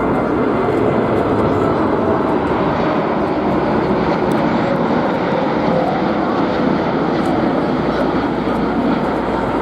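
Boeing 747's four jet engines running loud and steady, close by.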